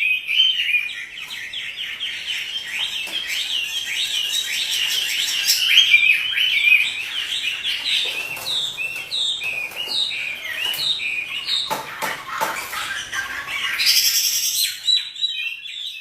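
Chinese hwamei singing continuously: a fast, varied song of rich whistled phrases, with a run of repeated slurred notes midway and a few sharp clicks about twelve seconds in.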